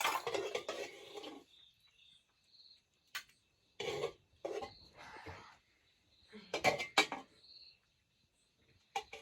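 Dishes and cutlery clinking and knocking in several short bursts as plates and spoons are handled while food is served.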